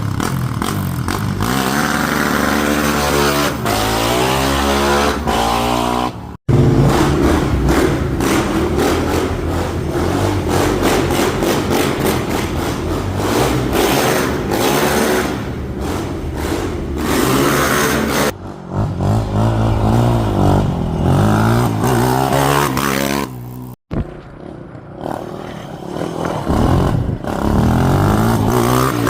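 Suzuki LT-Z400 quad's single-cylinder four-stroke engine revving hard through an aftermarket LeoVince exhaust, the pitch climbing and falling again and again as the throttle is worked. The sound cuts off abruptly twice, about six seconds in and near the end.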